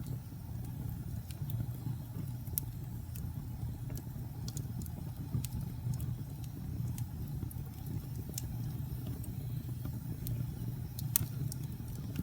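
Wood fire crackling in a fireplace: a steady low rumble of burning logs with scattered sharp pops and snaps. The sharpest snap comes near the end.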